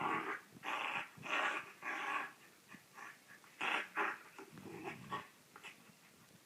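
A dog vocalising in a string of short, rough bursts: four in quick succession over the first two seconds, then a few more about three and a half to five seconds in.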